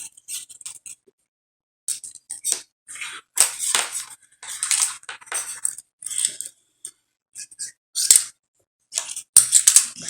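Plastic pony beads clicking and aluminum craft wire scraping and rustling as the wire is worked through the beads, in short irregular bursts.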